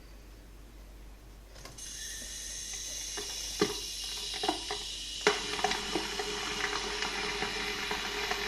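Kettle starting to heat water: a hiss comes in suddenly about two seconds in and carries on steadily, with scattered ticks and a couple of sharper knocks as the water and element warm up.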